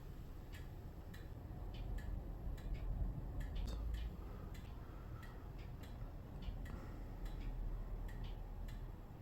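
Red-bellied woodpecker pecking: a run of light, sharp taps at an uneven two to three a second, over a low rumble.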